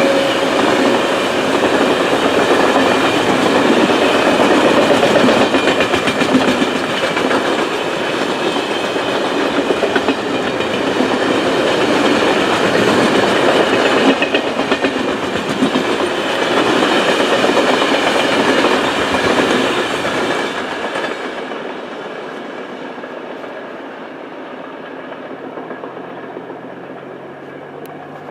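Freight train wagons rolling past on the rails, loud and steady, with wheels clicking over the rail joints. The noise dies away over the last several seconds as the end of the train passes.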